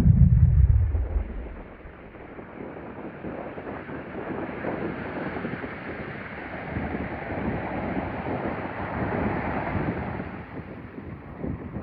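Heavy wind buffeting on the microphone dies away in the first second or so. Then Atlantic Ocean surf washes on the beach, swelling over several seconds and easing off near the end.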